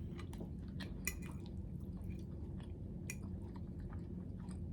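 A person chewing food, with soft, wet mouth clicks scattered through, over a steady low hum.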